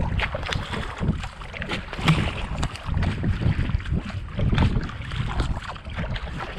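Kayak paddled hard at about 70–80 strokes a minute: paddle blades splashing in and out of the water in a repeating rhythm, with wind rumbling on the microphone.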